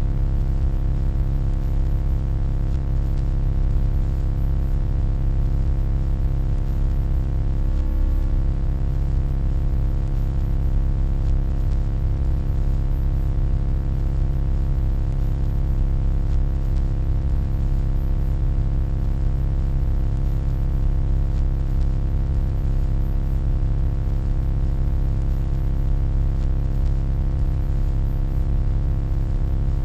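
Steady low electronic hum: a dense rumble with many constant tones layered above it, unchanging throughout.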